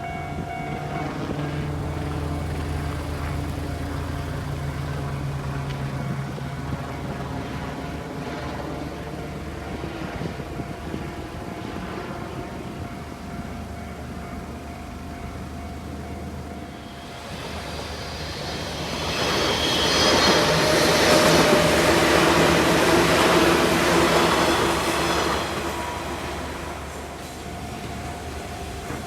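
A railway level crossing's warning bell rings steadily while a train passes over the crossing. A low rumble fills the first half. About 17 seconds in, the train's wheel and motor noise builds, is loudest for several seconds, then fades.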